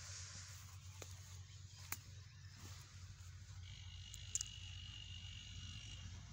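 An insect trills steadily on one high pitch from about three and a half seconds in until shortly before the end. Under it runs a constant low hum, with a few sharp clicks.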